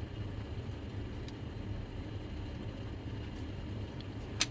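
Steady low background hum, with a single sharp click near the end.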